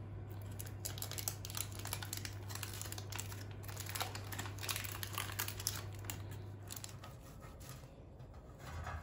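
Rapid crinkling and clicking of things being handled, over a steady low hum that stops about seven seconds in.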